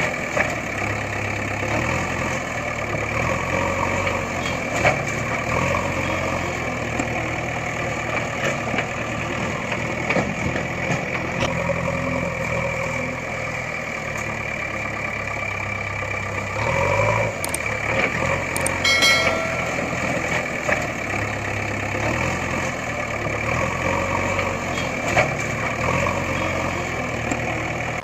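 Engine running steadily with an uneven low chug, and a brief beep-like tone about two-thirds of the way through.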